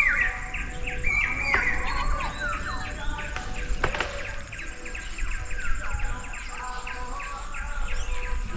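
Several birds calling in the forest, with overlapping short whistled notes, many falling in pitch, repeating throughout, over a steady low rumble.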